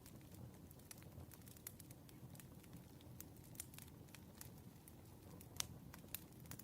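Campfire burning, with scattered crackles and pops over a soft low rustle; one sharper pop comes about five and a half seconds in.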